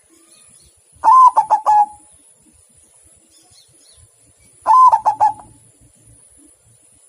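Zebra dove (perkutut) cooing its song twice, about three and a half seconds apart. Each phrase is a higher opening note followed by a quick run of rolling, pulsed coos a little lower in pitch.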